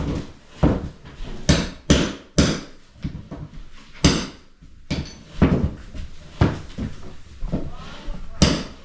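Hammer blows during house repair work: about a dozen sharp knocks at uneven spacing, each with a short ring after it.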